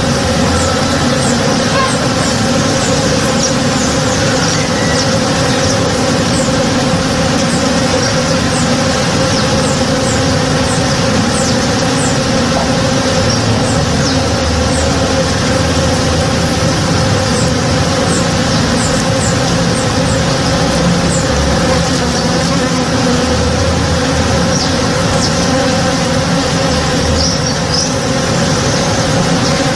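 A swarm of honey bees foraging in a blossoming tree, their many wings making a dense, steady buzzing hum.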